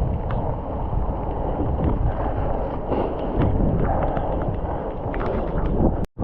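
Wind buffeting the microphone of a bicycle ride in heavy rain, with the wash of a wet road and many short ticks through it. The sound cuts out for a moment near the end.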